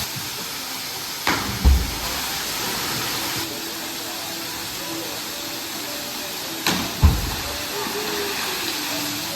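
Steady rush of a waterfall with faint voices in the distance, broken twice by a short, loud thump, about a second and a half in and again about seven seconds in.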